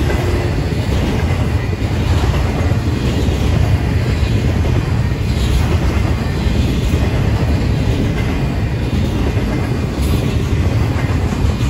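Intermodal freight train's container cars rolling steadily past close by, their steel wheels running on the rails in a continuous low rumble.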